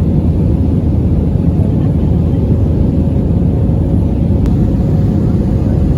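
Steady low rumble of an Airbus A320's jet engines and airflow heard inside the cabin during the climb after takeoff, with a faint steady hum above it.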